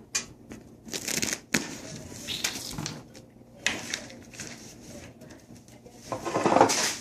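Plastic toy train track pieces being handled and snapped together: irregular bursts of rattling and scraping with sharp clicks, the loudest burst near the end.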